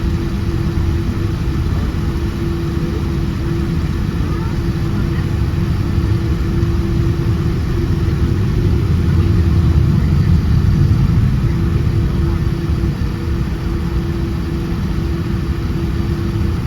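Cabin noise inside a Boeing 787-10 airliner: a steady low rumble from the jet engines and airflow, with a constant hum, swelling a little about halfway through.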